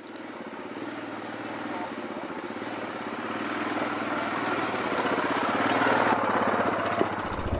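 Yamaha Grizzly 700 ATV's single-cylinder engine running and pulling away, growing steadily louder. Near the end it turns suddenly deeper and louder.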